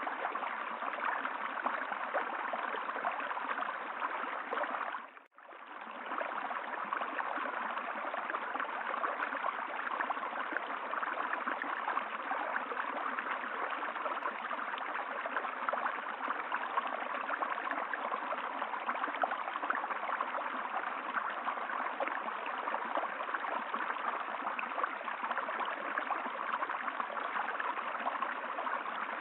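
Steady rushing and gurgling of flowing stream water, with a brief fade to near silence and back about five seconds in.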